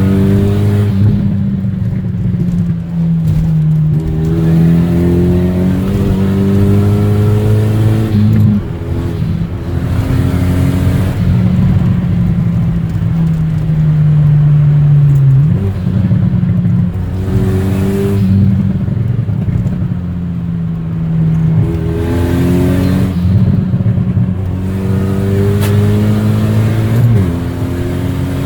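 Straight-piped Renault Mégane RS 225's turbocharged 2.0-litre four-cylinder engine, loud and unsilenced with no cat or boxes, revving up and easing off over and over. Its pitch jumps abruptly a few times, about a third, halfway and near the end.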